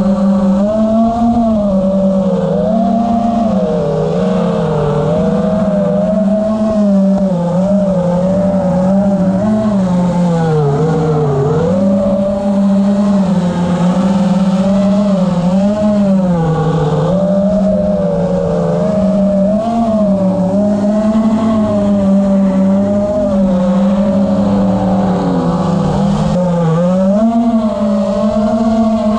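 FPV quadcopter's brushless motors and tri-blade propellers whining steadily, the pitch wavering up and down with throttle changes.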